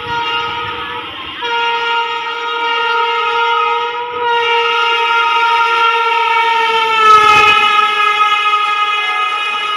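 Indian Railways locomotive horn blown in a long, loud blast of several tones, broken briefly about a second in and about four seconds in, dipping slightly in pitch about seven seconds in, over the rumble of the passing train.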